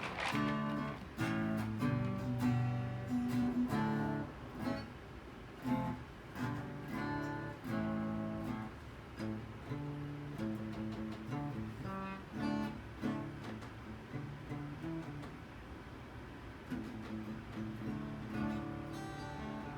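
Background music of acoustic guitar, plucked and strummed in a steady rhythm.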